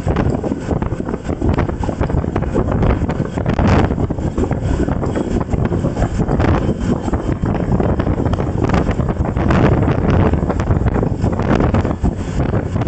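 Strong wind buffeting the microphone while travelling: a loud, continuous rush that surges and dips, heaviest in the low range.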